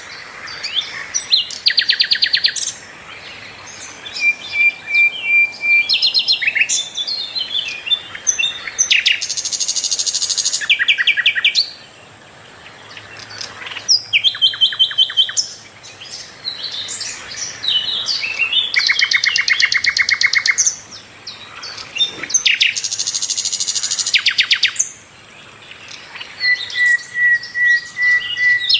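A sikatan londo flycatcher singing full and clear: a run of varied phrases made of fast rattling trills and quick chirps, with a long, level, high whistle twice, once early and once near the end.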